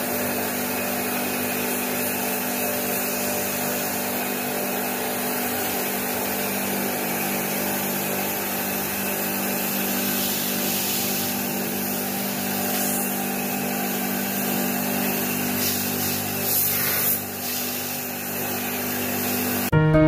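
An electric motor running steadily, a low hum with a hiss over it. The sound shifts briefly about three-quarters of the way through and cuts off suddenly near the end.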